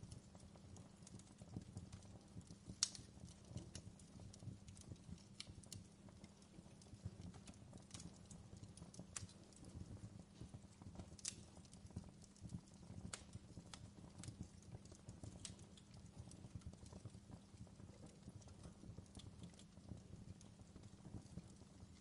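Wood fire crackling faintly in a fireplace: a steady low rumble with scattered sharp pops, the sharpest about three seconds in and again about halfway through.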